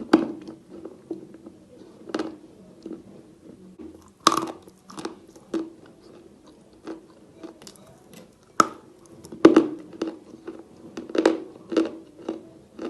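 Close-miked crunching of chalk being bitten and chewed: irregular sharp crunches, a few loud ones a couple of seconds apart with softer crackling between.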